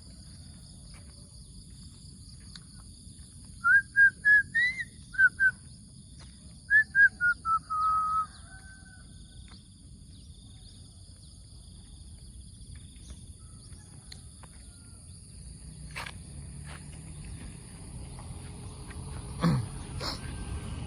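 Outdoor ambience: steady high insect trilling, with a bird calling two quick series of clear whistled notes a few seconds in, the second series falling in pitch. Near the end a low rumble rises.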